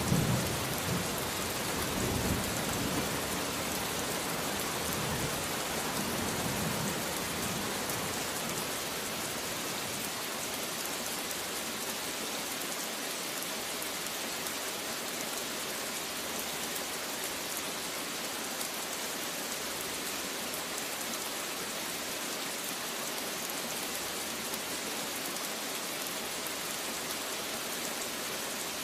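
Steady heavy rain falling, with a low thunder rumble dying away over the first several seconds.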